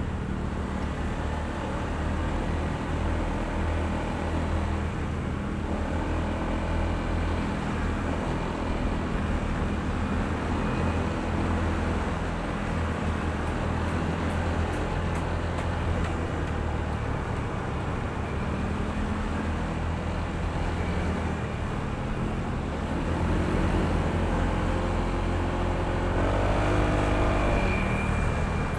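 Honda ADV160 scooter's single-cylinder engine running steadily while riding, under a constant rush of road and wind noise. In the last few seconds a pitched engine note rises and falls.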